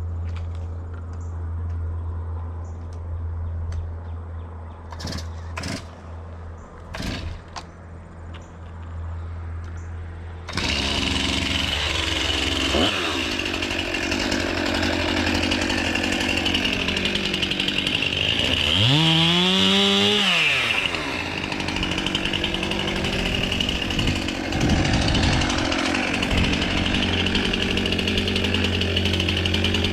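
A steady low hum with a few sharp knocks, then about ten seconds in a chainsaw opens up to full throttle and runs continuously, cutting through a tree limb. Its pitch dips and recovers briefly partway through.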